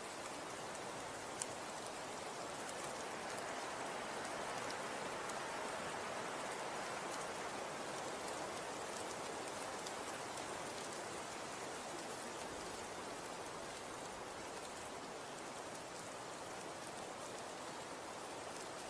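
Falling snow pattering steadily on surfaces: an even soft hiss with scattered tiny ticks, and one sharper tick about a second and a half in.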